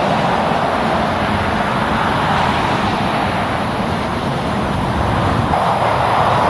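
Highway traffic passing: a steady rush of tyre and engine noise from trucks and cars, swelling a little about five and a half seconds in.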